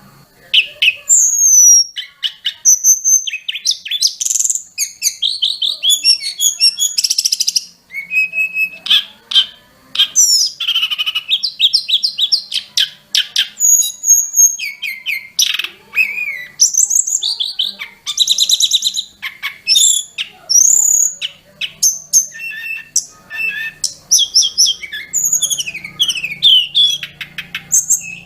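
A sulingan gunung (tledekan gunung) songbird singing a long, varied full song: a quick stream of high whistles, fast trills and chirps with brief pauses.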